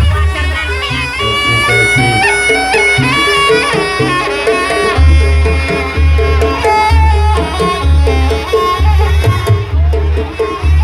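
Live Banyuwangi jaranan gamelan music: a shrill double-reed trumpet (slompret) plays a bending, ornamented melody over drums and gongs. A heavy low drum beat comes in about once a second from about halfway.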